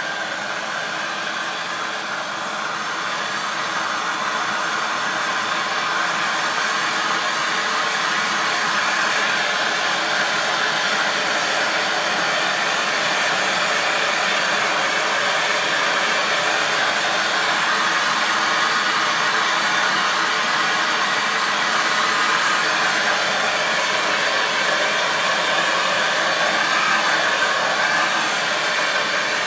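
MAP gas torch burning with a steady hiss as its flame is played over a wax-coated paddle to melt the wax off. It grows a little louder about three seconds in, then holds steady.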